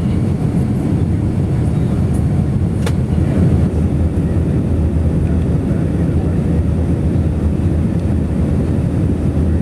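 Steady low roar of engine and air noise heard inside the cabin of an Airbus A319 airliner, with a brief click about three seconds in.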